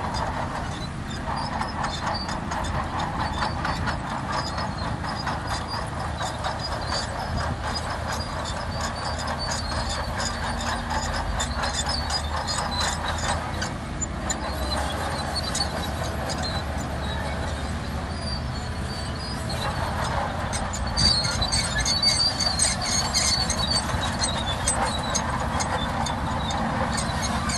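Shantui DH17C2 crawler bulldozer working: its diesel engine running under a steady clatter and high-pitched squealing from the steel tracks, the squeal getting louder about three-quarters of the way through.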